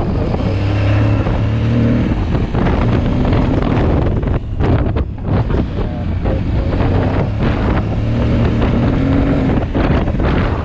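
Aprilia Tuareg 660's parallel-twin motorcycle engine pulling steadily under way, its note easing off and picking up again about halfway through, with wind buffeting the microphone.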